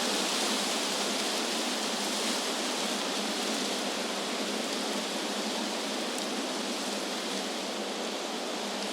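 Wind blowing through trees: a steady, even hiss with no gusts or breaks, easing slightly about halfway through.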